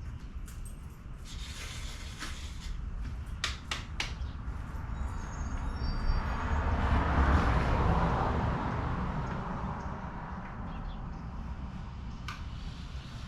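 A vehicle passing by, its noise swelling to a peak about halfway through and then fading, over a steady low rumble. A few sharp clicks or knocks come in the first four seconds, and one more near the end.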